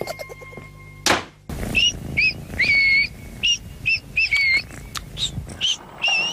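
A bird's short whistled chirps, about a dozen, some bending up and down, over a rustling noise. They follow a steady tone that ends in a quick sweep about a second in.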